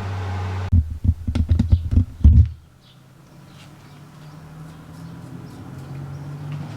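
A steady machine hum cuts off under a second in, followed by about two seconds of irregular clicks and knocks, then a faint low hum.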